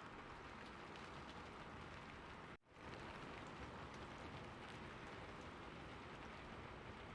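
Steady rain falling, an even hiss of drops, with a brief dropout about two and a half seconds in before it resumes.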